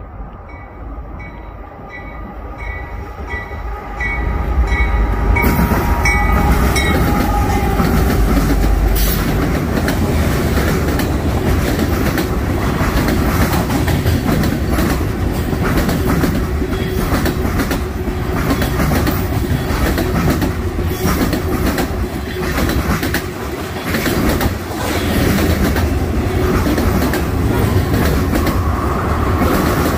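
Norfolk Southern freight train passing close by. The locomotives' heavy rumble arrives about four seconds in, followed by a long run of railcars whose wheels clatter steadily over the rail joints.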